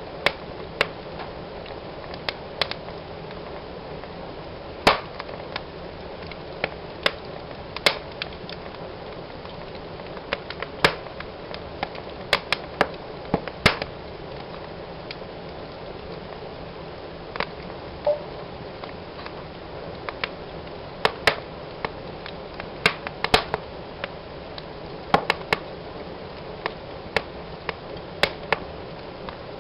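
Fire burning in a fireplace: a steady hiss with sharp crackles and pops at irregular intervals.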